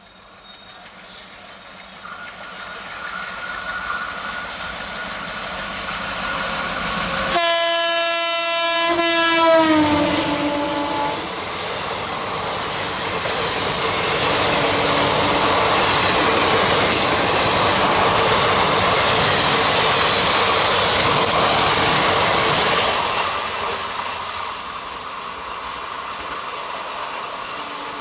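An Alco WDM-3A diesel locomotive hauling an express train approaches and sounds its horn about seven seconds in; the horn's pitch drops as the locomotive passes. The coaches then run by with a loud rumble and wheel clatter, easing off near the end.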